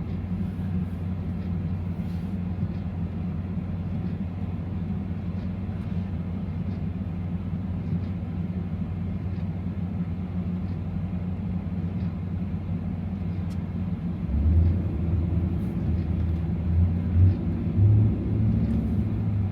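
Ram TRX's supercharged 6.2-litre Hemi V8 running steadily at low speed, then opening up in several short surges of throttle near the end.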